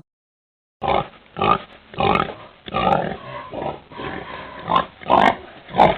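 Domestic pig grunting, a run of short, rough grunts roughly every half second, starting about a second in.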